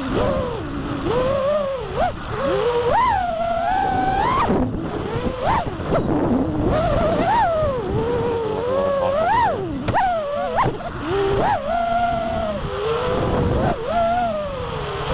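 FPV freestyle quadcopter's motors whining, the pitch sweeping up and down over and over as the throttle is punched and eased through manoeuvres.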